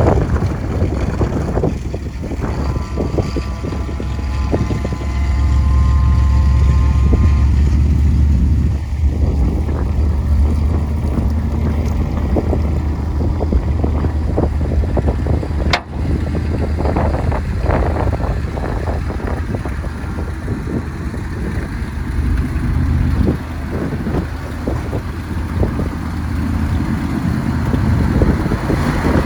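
Dodge 500 truck's engine running with a heavy low rumble that swells for several seconds about a fifth of the way in, with wind buffeting the microphone.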